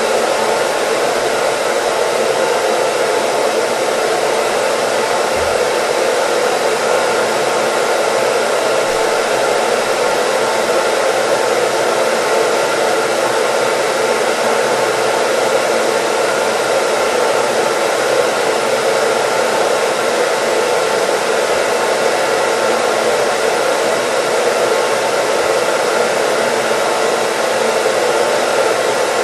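Electric hair dryer running steadily, an even whooshing rush of blown air and motor with a faint steady hum, played as continuous white noise.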